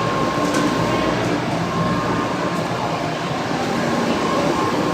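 Steady rail noise of a shinkansen standing at a station platform: an even rush and hum, with a faint held tone.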